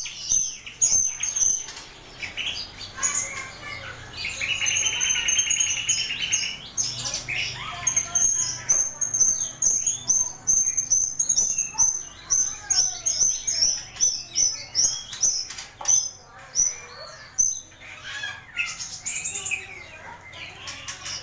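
Rio-rio bird singing energetically in a long, unbroken run of rapid high chirps and short whistled notes, with a buzzy, rasping phrase about five seconds in. This is a mastering song track used to teach caged starlings new calls.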